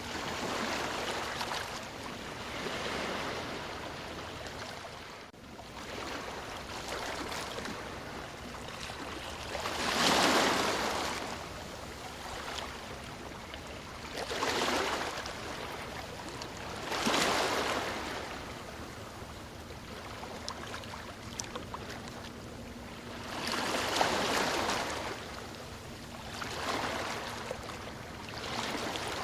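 Ocean waves washing onto a shore: a steady rush of surf with several louder surges as waves break, the strongest about ten seconds in.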